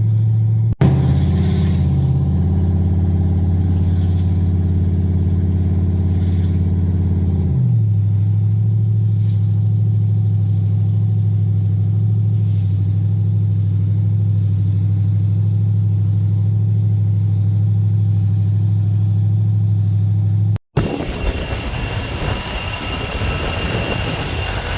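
A vehicle engine idling with a steady drone. About eight seconds in, the idle drops slightly and then holds steady. Near the end a cut brings in a noisier rushing sound.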